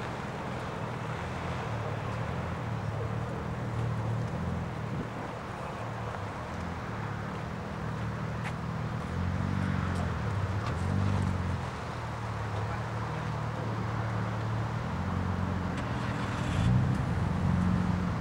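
Nissan Skyline engine running with a low rumble, revved up briefly about halfway through and again near the end.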